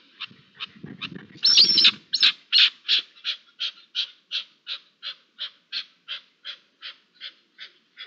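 A bird calling in a fast, even series of short notes, about three a second, slowly fading after the first few seconds. A louder, rougher burst with a low rumble comes about a second and a half in.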